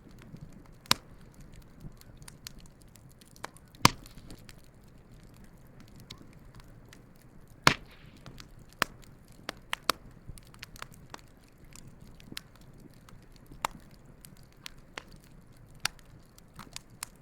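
Wood campfire crackling, with irregular sharp pops and snaps, the loudest about 4 and 8 seconds in, over a faint low rumble.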